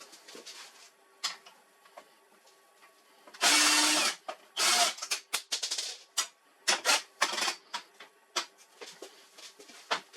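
Hard plastic and metal printer parts being handled during disassembly: irregular clicks, knocks and short rattles, with one loud scrape or rustle lasting about half a second, starting about three and a half seconds in.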